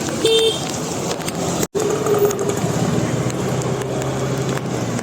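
Road traffic running steadily, with motorbikes and cars passing. A short horn beep sounds just after the start, and another tone follows a brief dropout about a third of the way in.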